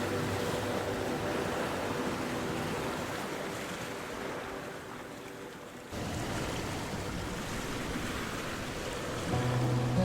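Ocean surf washing in a steady rushing hiss that slowly fades, then cuts abruptly back to full loudness about six seconds in.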